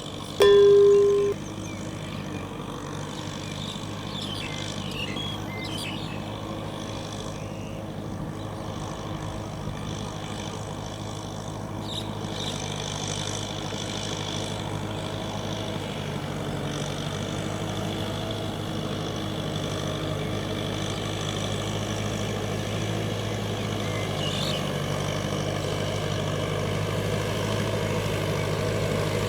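Kubota M6040SU tractor's diesel engine running steadily, growing gradually louder. A loud steady beep sounds in the first second.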